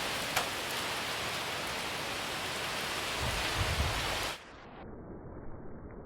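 Hurricane rain and wind, a steady rush of noise with a low rumble of wind on the microphone near the end of it, then an abrupt cut about four seconds in to a quieter, muffled hiss.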